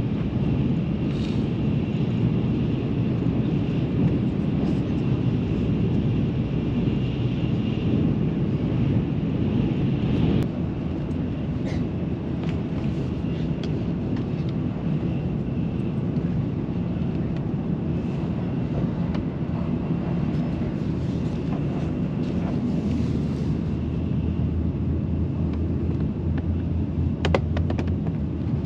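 Shinkansen bullet train running at speed, heard inside the passenger cabin: a steady low rumble with a faint hiss above it. The noise changes abruptly about ten seconds in, and a few light clicks come near the end.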